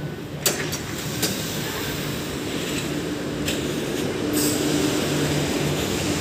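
Dubai Metro train in the station, running with a steady hum and a couple of low steady tones. A few sharp clicks sound about half a second and a second and a quarter in.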